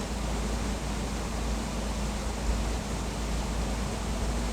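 Steady outdoor noise: an even hiss over a low rumble, with a faint steady hum and no distinct events.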